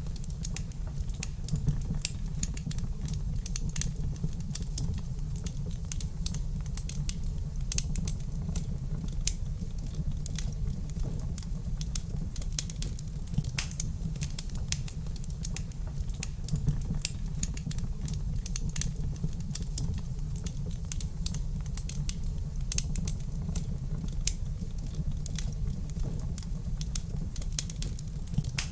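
Wood fire in a fireplace crackling, with many small sharp pops at irregular intervals over a steady low rumble.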